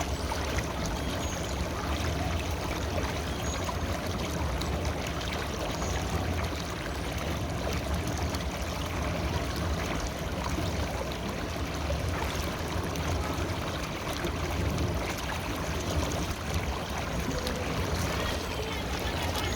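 River water flowing, a steady rushing and trickling.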